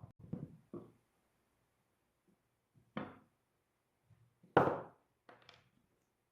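Short wooden knocks and clatters from cedar bench parts being handled and struck: a quick cluster at the start, single knocks about three seconds in, the loudest about four and a half seconds in, then a couple of lighter taps.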